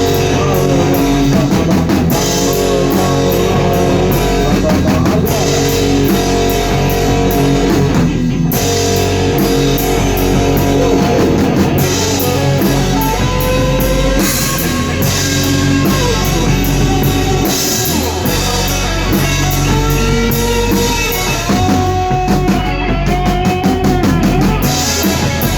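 Rock band playing a song with drum kit and electric guitars, two guitars playing a harmonised line as first and second parts. The guitars are not yet tight enough, in the band's own judgement.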